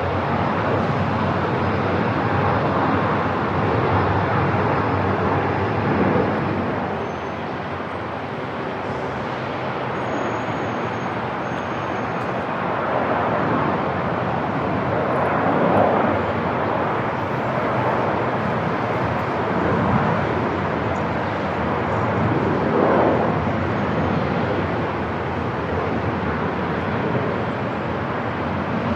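Airport ambience: a continuous broad rumble and hiss with aircraft noise, swelling and easing slowly in level.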